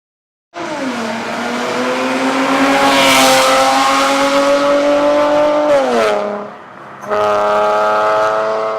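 Porsche Panamera S (970) engine and exhaust held at raised revs, the pitch climbing slowly, then falling away about six seconds in as the revs drop. About a second later a steady sound at a constant pitch starts abruptly.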